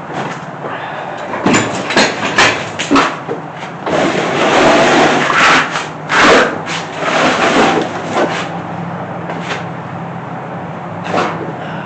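Knocks, clunks and scraping of heavy parts being shifted and slid into place by hand, over a steady low hum. A burst of sharp knocks comes first, then a few seconds of rubbing and scraping, then scattered single knocks.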